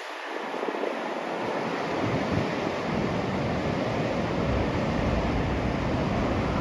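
Snowstorm wind: a steady rushing hiss that builds over the first couple of seconds, with uneven low buffeting of wind on the microphone.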